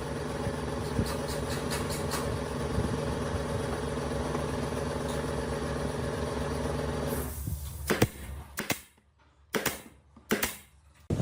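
A motor running steadily at one even pitch, which cuts off about seven seconds in; a few sharp knocks follow.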